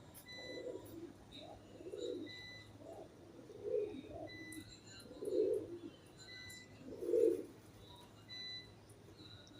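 Pigeons cooing in a series of low calls, one every second or so, the loudest a little past halfway.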